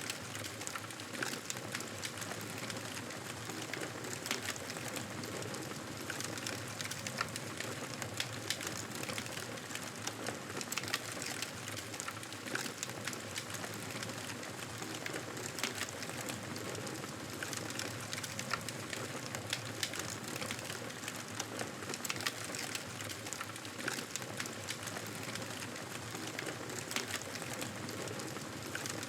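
Wood fire crackling in a fireplace: a steady hiss with frequent small pops and snaps scattered throughout.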